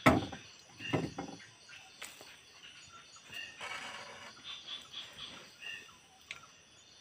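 A sharp knock right at the start, then short bird calls, clucks and chirps, coming every second or two.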